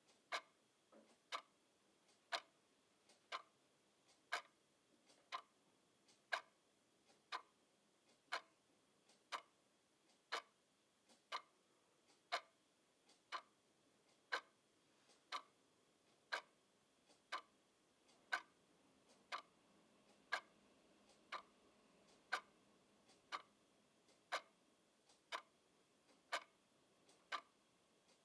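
Clock ticking steadily, about one tick a second, some ticks louder than others.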